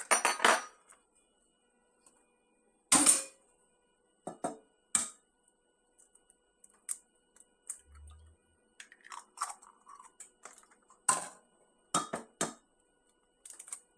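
Raw eggs being cracked open by hand: a string of sharp cracks and taps of shell, irregularly spaced a second or more apart, with light clinks of kitchenware.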